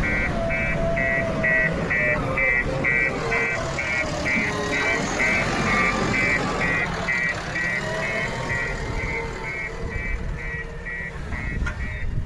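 A heavy diesel machine's engine running, with an electronic warning beeper pulsing about two and a half times a second throughout, and a wavering whine over the engine noise.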